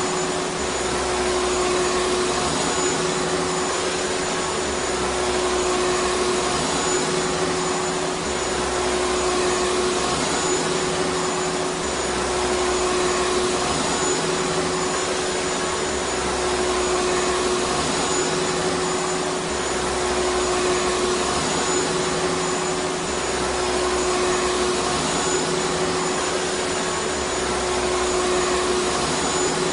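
Vacuum cleaner motor running steadily: an even rush of air with a steady hum and a faint high whistle above it, unchanging throughout.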